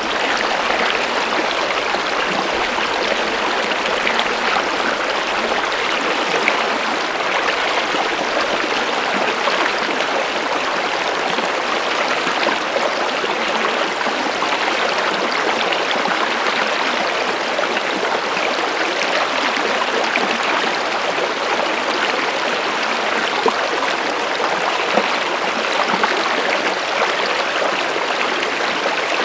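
Running water of a stream, flowing steadily with an even rush and light splashing.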